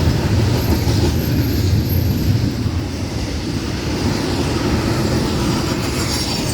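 Florida East Coast Railway freight train of container well cars rolling past close by: a steady rumble of steel wheels on rail.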